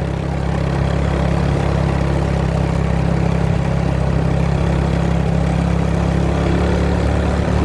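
Motorbike engine running at a steady, even speed.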